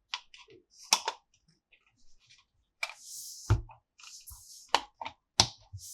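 Hard plastic toy parts clicking and knocking as they are handled, with two short stretches of rustling plastic near the middle.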